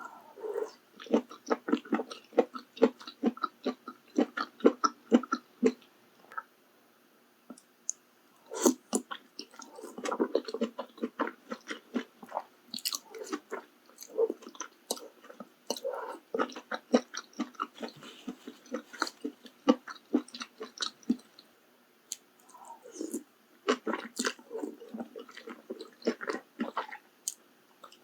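Close-miked chewing of malatang, with quick wet bites and crunches in three bouts broken by two short pauses.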